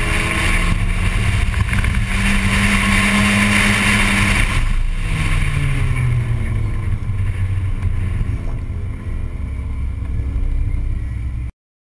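Volkswagen Golf Mk1 racing car's 1.8-litre four-cylinder engine heard from on board with some wind noise, holding steady revs, then lifting off about four and a half seconds in and running at lower, slowly falling revs as the car slows under a red flag. The sound cuts off suddenly near the end.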